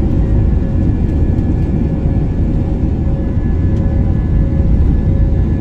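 Cabin noise of an Airbus A319-131 during takeoff, its IAE V2500 turbofan engines at high thrust: a loud, steady low rumble with a faint steady engine hum.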